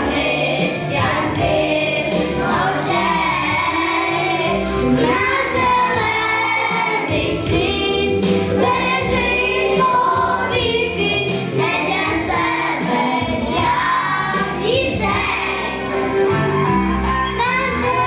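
Children singing a song together over an instrumental backing track.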